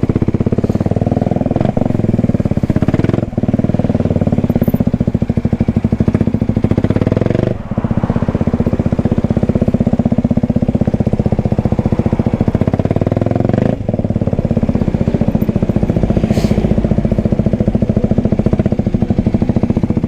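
Kawasaki Ninja 125's single-cylinder four-stroke engine running under way, a steady pulsing exhaust note that dips briefly four times.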